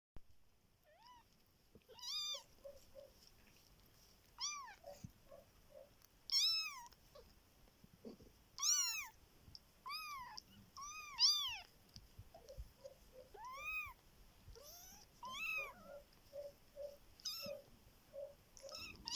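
Three-week-old Bengal kittens mewing: high, thin cries that rise and fall in pitch, repeated every second or two, with softer short squeaks in between.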